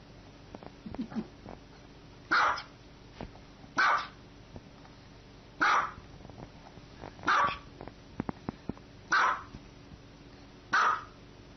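A small white dog barking six times, single short barks spaced about one and a half seconds apart.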